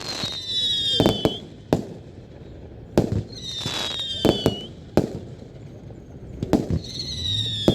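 Fireworks display: several sharp bangs of bursting shells, and three high whistles from whistling fireworks, each about a second long and sliding slightly down in pitch.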